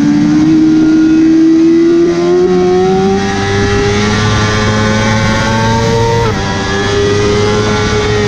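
Motorcycle engine running hard at high revs on a racetrack, its pitch climbing slowly over several seconds as it pulls, with a brief dip about six seconds in, over a steady rushing noise.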